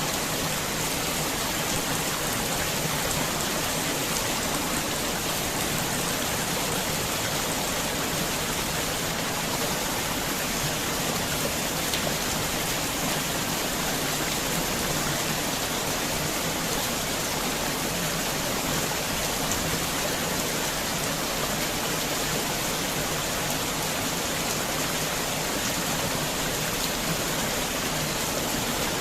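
Heavy rain falling, a steady, unbroken wash of sound with no single drops or gusts standing out.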